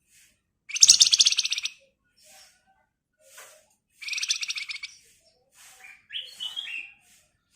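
Javan fulvetta (wergan Jawa, 'flamboyan') singing: two loud, rapid, buzzy trills about a second each, then a short run of stepped whistled notes near the end, with faint chips between.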